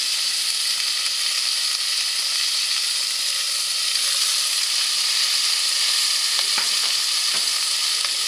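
Diced bacon frying in a little oil in a cast-iron pot over a gas ring: a steady sizzle, with a few light clicks in the last couple of seconds.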